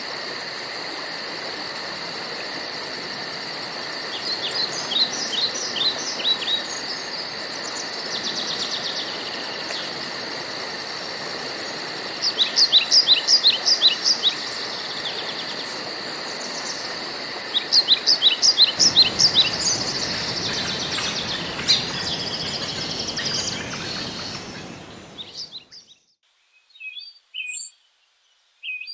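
Woodland ambience: a songbird repeats short phrases of quick descending notes several times over a steady hiss and a high, fast insect trill. About three-quarters of the way through the background fades out, leaving a few isolated bird chirps.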